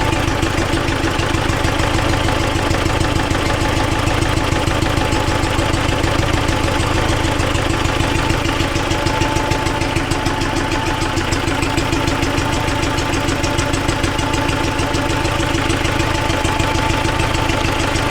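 T-40AM tractor's air-cooled four-cylinder diesel idling with a fast, even beat and a knock in the engine that the owners are trying to trace.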